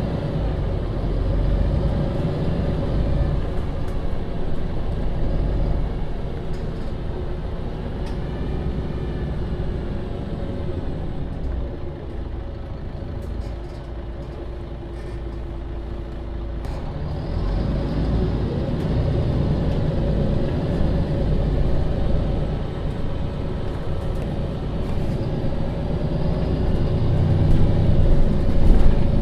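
MAN Lion's City city bus (Euro 6) running under way, its engine and drivetrain heard from inside the bus. The sound drops to a quieter, steadier hum for a few seconds about halfway through, then builds again and is loudest near the end.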